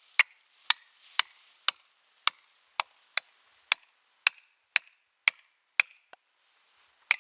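Felling wedges being driven in with a striking tool. About a dozen sharp, ringing blows come roughly two a second, with a short pause before a last blow near the end. This is wedging to tip the tree over.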